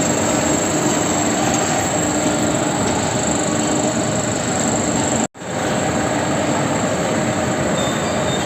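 Tea-factory processing machinery running: a loud, steady mechanical din with a constant high whine above it. The sound drops out for an instant about five seconds in.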